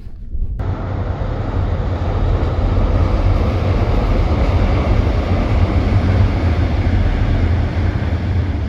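Train passing close by on the railway line: a loud, steady rumble with a rushing noise over it. It comes in sharply about half a second in and cuts off suddenly at the end.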